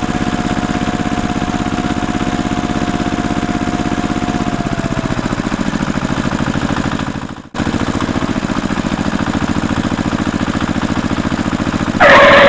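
Small engine of a mini tractor idling steadily with a rapid, even chugging, cutting out briefly about seven and a half seconds in. A loud, harsh burst of noise comes in near the end.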